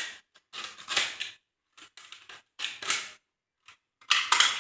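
Thin plastic bottle being cut and flexed with a blade, crackling in a series of short irregular bursts, the loudest near the end.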